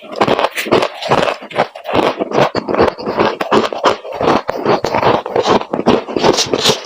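Close-up crunching of freezer frost: a dense run of quick, irregular crunches and scrapes.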